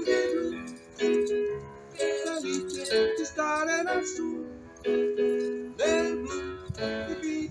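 Music on a plucked string instrument, strummed in notes about once a second, with some notes bending in pitch.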